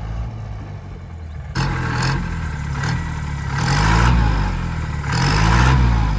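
Off-road vehicle's engine revving up and down in repeated surges, about one every second and a half, starting abruptly about a second and a half in, with a hissing spray at each surge.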